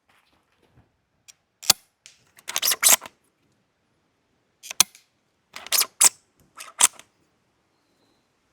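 Gas-powered bolt-action airsoft sniper rifle (a 3D-printed DVL-10 running on a gas magazine) being fired and cycled: a sharp crack about two seconds in and another near the middle, each followed by a quick burst of clicking and clatter from the bolt being worked.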